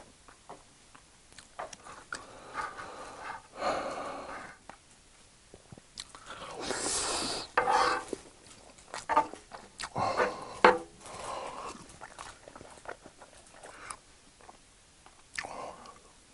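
Close-up chewing and mouth sounds of a person eating soft scrambled eggs. About halfway through, a wooden spoon scoops eggs off the griddle pan, followed by a run of louder, noisier bursts.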